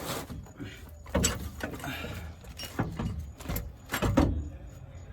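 Irregular knocks and clanks of tools and metal parts being handled, about five in all.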